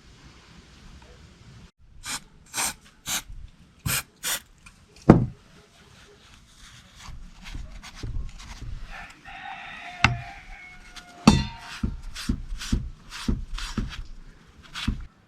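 Workshop handling noises during chainsaw repair: a series of sharp clicks and knocks from parts and tools being picked up and set down, with a scraping rub about nine to eleven seconds in.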